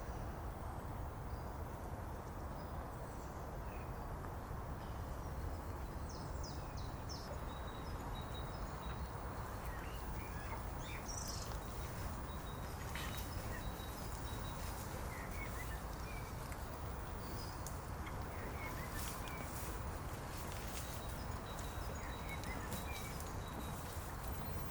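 Outdoor rural ambience: a steady low rumble of open-air noise with faint, scattered bird chirps throughout.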